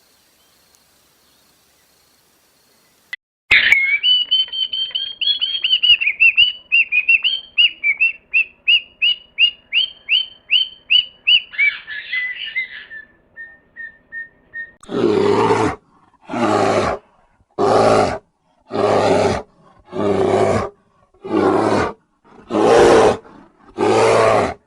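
Animal calls: a run of rapid high chirps that comes faster and fades out, then eight harsh, rasping calls about a second apart.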